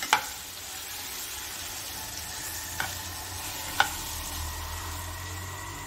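Mango pieces sizzling in a nonstick kadai as a metal spatula stirs them through chili powder, with three sharp clicks of the spatula against the pan.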